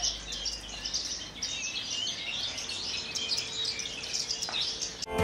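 Javan bush lark (branjangan) singing a fast, continuous warbling song of quick, varied chirps, which breaks off shortly before music starts.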